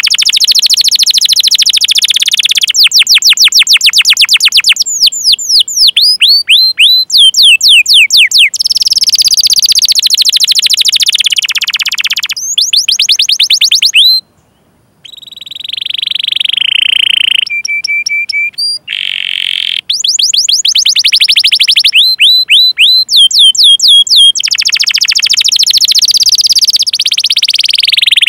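Domestic canary singing a long song: runs of rapid repeated sweeping 'cuit cuit' chirps alternate with dense rolls and trills, with a silence of about a second roughly halfway through.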